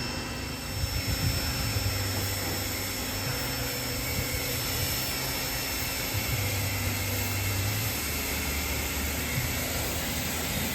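A steady mechanical roar with a low, wavering hum underneath, like a motor or engine running continuously.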